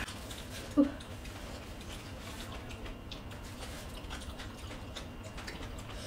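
Close-up eating sounds: scattered small clicks and smacks of chewing and fingers on food. There is one short, loud, pitched blip a little under a second in.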